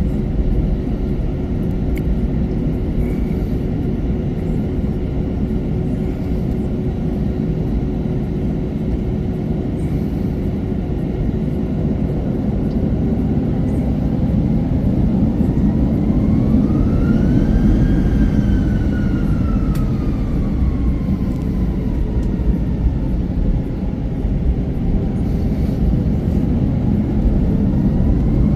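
Airbus A321 cabin noise on the ground: a steady low rumble with a constant hum. About halfway through, a whine rises, peaks and falls away, then begins rising again near the end.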